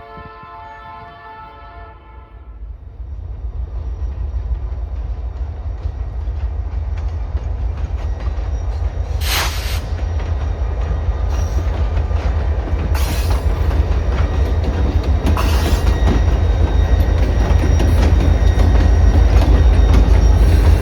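Locomotive air horn that cuts off about two seconds in, then a light-power consist of two EMD SD40-2s and a GP39-3 growing steadily louder as it approaches, its diesel engines and wheels rumbling.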